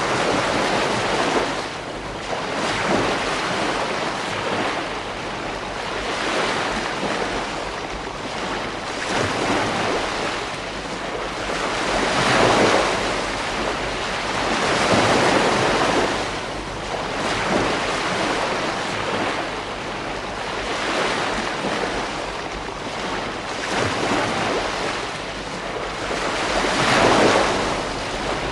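Ocean surf breaking and washing onto a beach, a continuous rush that swells and eases every few seconds.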